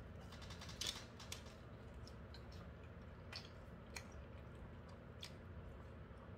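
Faint chewing of French fries, with a few soft, scattered mouth clicks.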